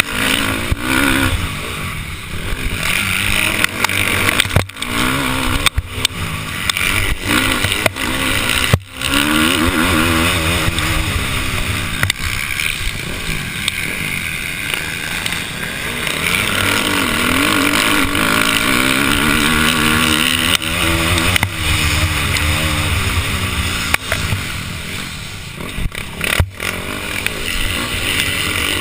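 Motocross dirt bike engine, heard from the rider's helmet camera, revving up and falling back again and again as it accelerates and shifts around the track, with wind noise over the microphone. The sound drops out briefly a few times.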